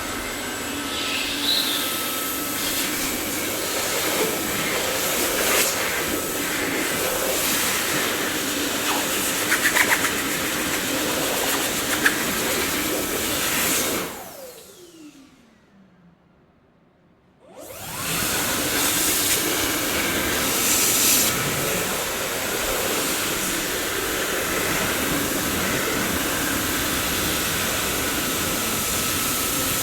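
Dyson vacuum cleaner running with a steady airy whine, with a few brief clicks. About halfway through it is switched off and the motor winds down with a falling pitch to near silence for a few seconds. It is then switched back on and spins up again to a steady run.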